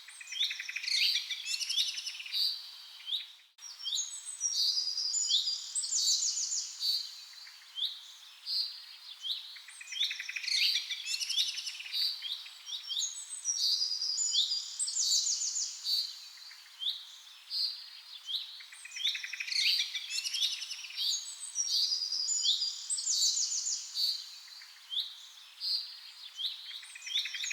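Many birds chirping and singing together in rainforest ambience, a dense chorus of short high chirps and fast trills. The sound drops out briefly about three and a half seconds in.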